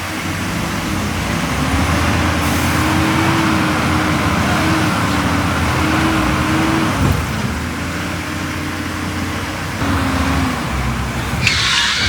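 Diesel engine of heavy earthmoving machinery running steadily under load, with a wavering whine that breaks off about seven seconds in. A short hiss of air near the end.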